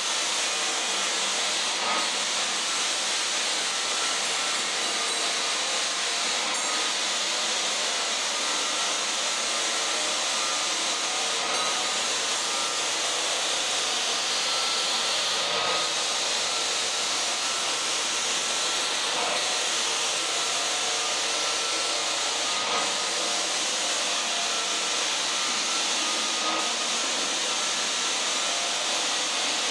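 Floor sander running steadily, abrading a black waxed wood floor with a constant hiss.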